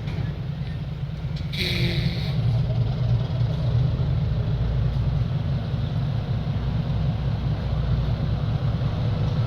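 Heavy diesel engine running with a steady low rumble, with a brief hiss about one and a half seconds in.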